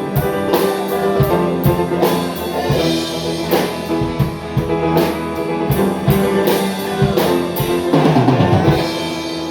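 A band playing with a drum kit keeping a steady beat over sustained chords. About eight seconds in comes a quick run of drum hits with a falling slide in pitch, then the drums stop and the chords ring on.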